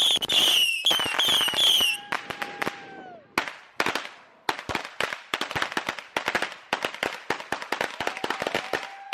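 Consumer fireworks going off: rapid, irregular strings of firecracker pops and crackles throughout, with high warbling whistles over the first two seconds and a lower whistle that falls away around three seconds in.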